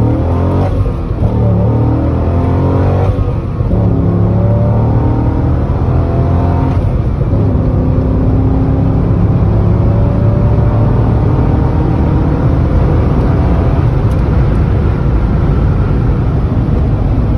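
Chevrolet C6 Corvette V8 heard from inside the cabin, accelerating hard. Its pitch climbs several times over the first few seconds as it pulls through the gears, then it settles into a steady high-speed drone with road noise.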